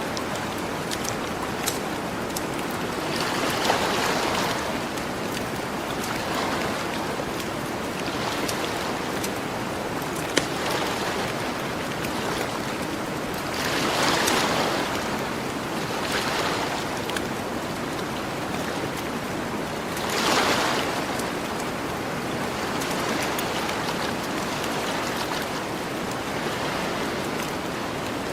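Ocean waves washing onto the shore in a steady surf, swelling every few seconds with three larger washes. Over it a campfire crackles with scattered sharp pops, one louder pop about ten seconds in.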